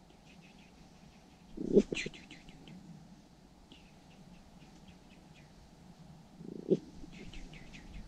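A small bird chattering in several quick runs of short, high ticking notes, with two louder short rustling thumps, about two seconds in and near seven seconds in.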